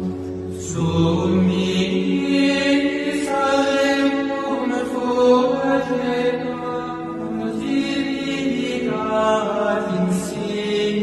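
Gregorian chant: voices singing a Latin sacred hymn in long, held notes.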